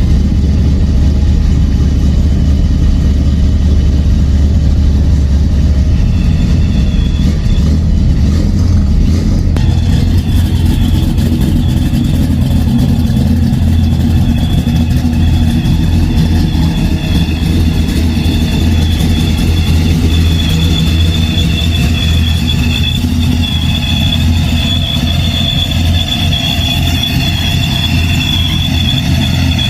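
Exhaust of a cammed Ford Thunderbird's engine idling steadily after a cold start, with a deep low rumble. About ten seconds in, a steady high-pitched whine joins it and carries on.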